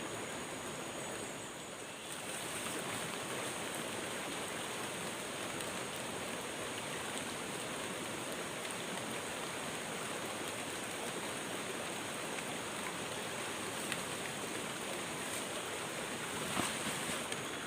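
Steady rushing water noise, with thin steady high tones above it.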